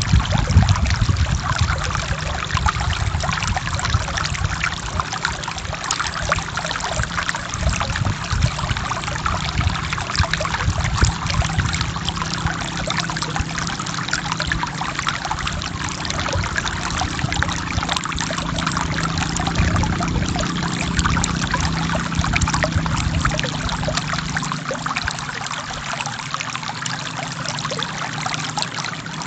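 Forest river water flowing steadily: a dense babble of small splashes and trickling, over a low rumble that eases near the end.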